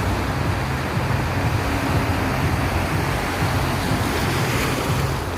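Ocean surf washing onto a beach in a steady, unbroken rush of noise, with a low rumble underneath.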